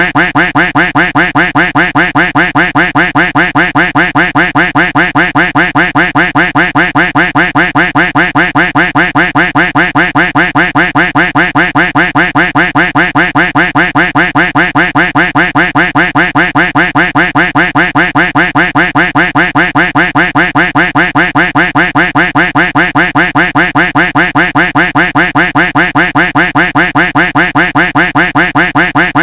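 Duck quack sound effect looped over and over: rapid, evenly spaced quacks repeating without a break.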